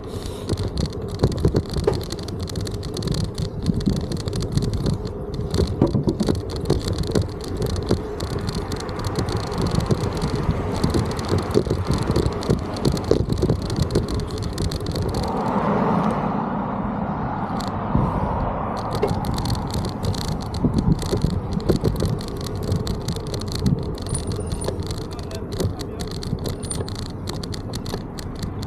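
Estarli E20 folding eBike rattling and clattering as it rides over a rough, bumpy path, with a constant low rumble and quick knocks from the frame and parts. About halfway through, a smoother rushing noise swells for a few seconds.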